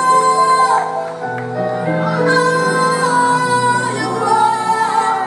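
Gospel music: a woman singing long held notes, with some sliding between pitches, over steady accompaniment.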